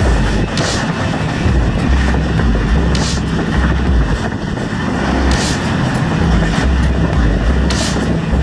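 Hazara Express passenger train running along the track: a steady heavy rumble with a short hissing clatter that comes back about every two and a half seconds.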